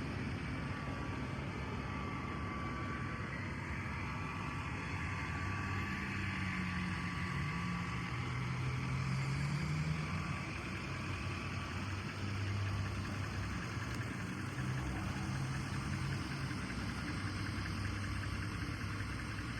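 Cummins 5.0-litre V8 turbo diesel in a Nissan Titan XD idling steadily. The exhaust runs with its diesel particulate filter deleted and the engine carries an aftermarket tune.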